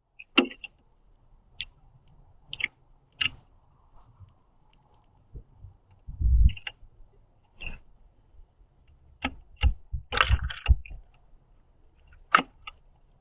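Irregular sharp clicks and taps of a male northern cardinal cracking sunflower seeds and pecking at a plastic tray feeder, with a few low bumps about halfway and again near the end.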